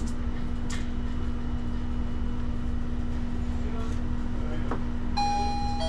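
Steady low machine rumble with a constant hum. About five seconds in, a chime-like electronic tone starts.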